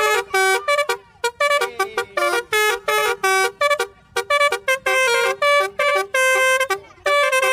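Basuri telolet bus horn playing a quick melody of short, separate horn notes that step up and down in pitch, in phrases with brief pauses.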